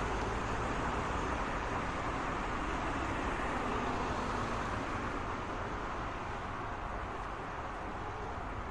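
Road traffic noise: a steady wash of passing cars that eases off slightly toward the end.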